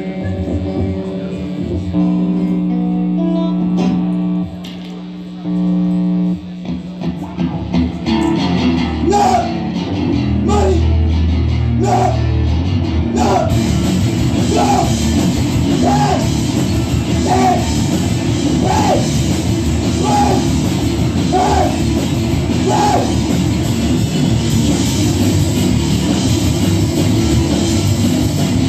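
Rock band playing live: a guitar part of held notes opens, then drums and heavy guitars build in from about seven seconds in, with accents about every second and a half, and the full band is playing by about thirteen seconds in.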